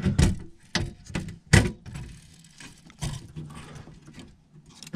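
Handling noise from parts being worked by hand: a string of sharp knocks and clicks, the loudest about a second and a half in, with rustling between them.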